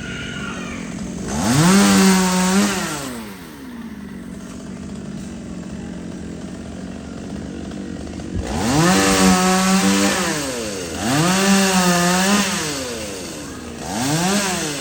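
Two-stroke chainsaw revved up four times in bursts, each time holding at high revs briefly before dropping back to idle.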